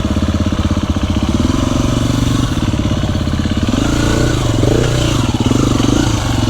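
Dirt bike engine running at low revs with an even, pulsing exhaust beat, the pitch rising and falling a few times about two thirds of the way through as the throttle is worked over a tricky section of trail.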